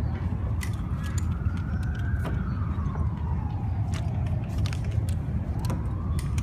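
A siren wailing slowly up and down over a steady low rumble, with scattered sharp clicks.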